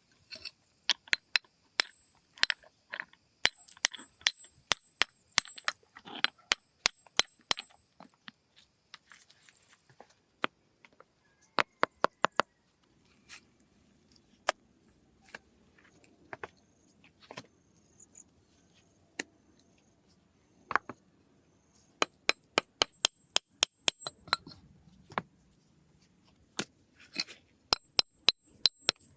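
Hand tool striking again and again: sharp knocks with a faint metallic ring, in quick runs of about two or three blows a second, broken by short pauses.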